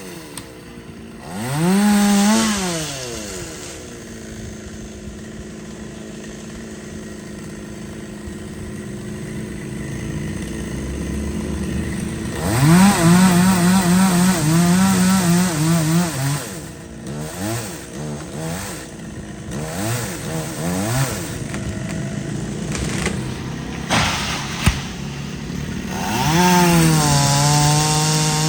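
Two-stroke chainsaw revved up and down several times, with a longer stretch of lower running in the first half. Its pitch wavers during the loudest revs. A single sharp knock comes about three-quarters of the way through.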